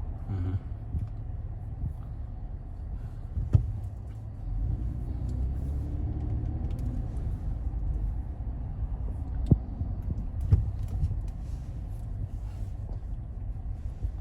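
Car engine and road rumble heard from inside the cabin while driving, getting louder about four and a half seconds in, with a few sharp clicks.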